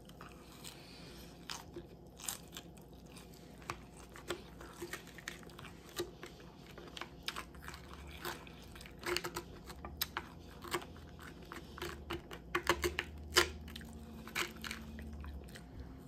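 Chewing of crisp lettuce salad: irregular crunches and clicks between bites, coming thicker in the second half.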